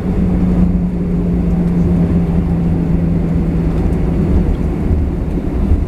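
Airbus A320 cabin noise on the ground: a steady low rumble from the engines and rolling gear, with a hum that sinks slightly in pitch and fades after about four seconds.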